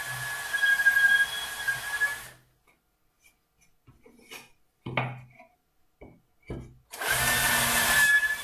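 Cordless drill boring a hole through wood, its motor giving a steady high whine; it stops about two seconds in, a few short knocks follow, and the drill starts up again near the end.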